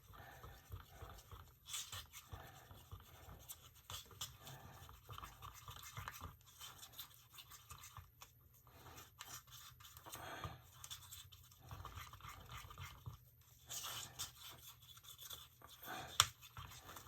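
A stick stirring tinted epoxy resin in a mixing cup: faint, irregular scraping and tapping against the cup, with one sharp click near the end.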